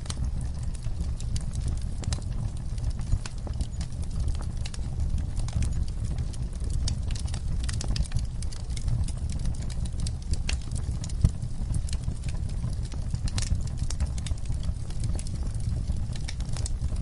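Wood fire in a fireplace burning, with irregular crackles and pops over a steady low rumble of the flames; a couple of sharper pops stand out.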